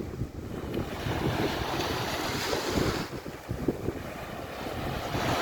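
Waves washing onto the beach, with wind buffeting the microphone. The surf swells, eases a little after about three seconds, and builds again near the end.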